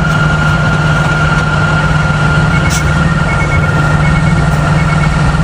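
A motor vehicle's engine running steadily, with a faint short beep repeating about every three-quarters of a second from about halfway in.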